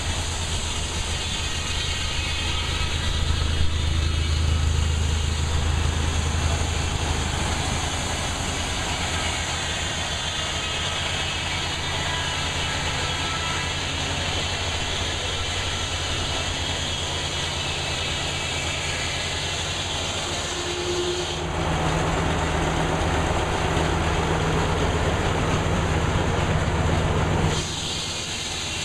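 Sawmill machinery running steadily, with a low, even drone under a noisy hiss. The sound shifts to a different low tone about 21 seconds in and drops in level near the end.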